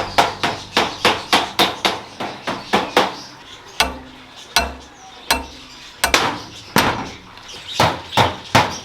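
Hammering: quick blows, about four a second, that thin out to a few scattered strikes midway and pick up again near the end.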